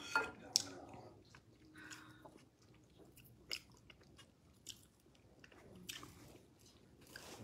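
A person eating seafood from fisherman pepper soup with the fingers: quiet chewing and biting, with scattered sharp clicks and crunches, the loudest in the first second.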